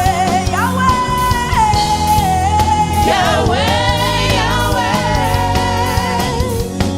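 Gospel worship song: voices holding long, wavering sung notes with slides between pitches, over a steady instrumental accompaniment.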